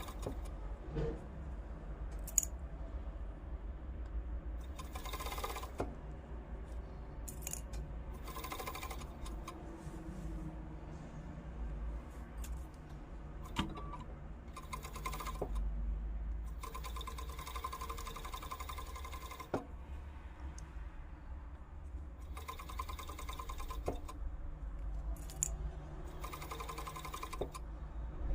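Sewing machine stitching in several short runs of a second or two each, with clicks and handling sounds in the pauses between runs.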